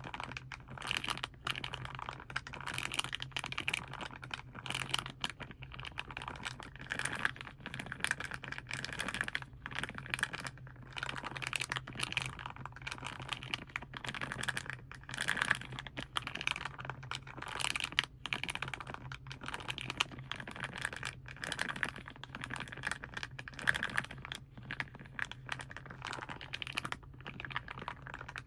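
Fingernails tapping and crinkling plastic and foil paint packaging, fast and irregular.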